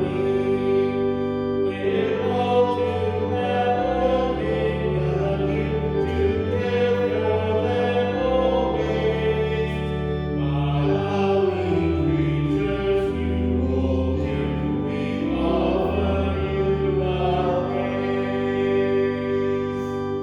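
Slow sacred music of sustained chords over a deep bass line, changing chord every second or two.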